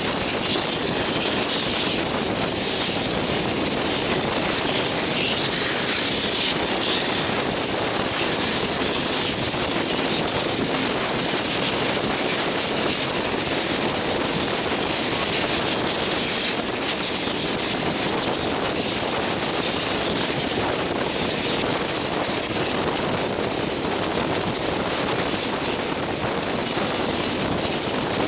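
Steam-hauled passenger train running at speed: a steady rush of wheel and running noise, with wind buffeting the microphone at the open carriage window.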